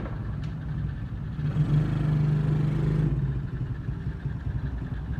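125cc ATV quad bike's engine running and pulling forward, revving up for about a second and a half in the middle, then easing back to a lower, steady run.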